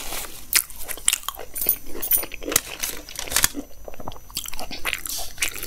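Close-up chewing of crispy double-fried pakoras: an irregular run of sharp crunches, several a second.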